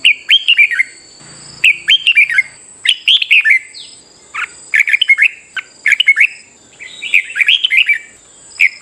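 Red-whiskered bulbul song: short, quick warbled phrases, about six of them, each under a second, repeated every second or so.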